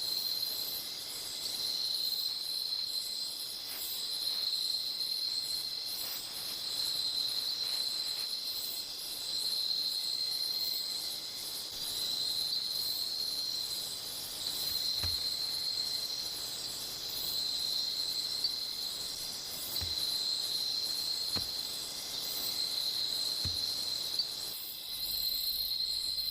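Tropical rainforest insect chorus at night: a steady high-pitched chirring that swells and fades about every two seconds, with faster ticking calls above it.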